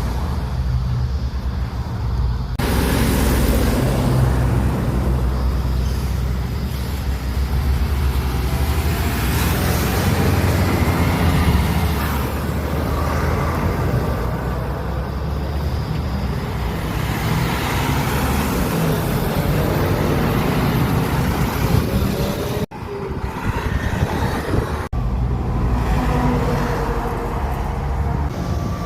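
Street traffic: the engines of passing cars and trucks make a steady low rumble with road noise, changing abruptly a few times.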